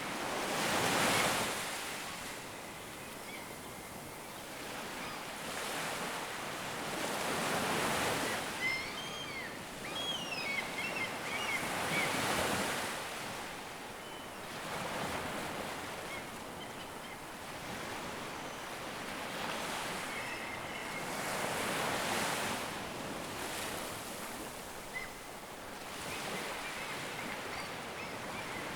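Ocean surf, waves breaking and washing in again every few seconds, with some wind. A few short, high chirping calls come over it near the middle.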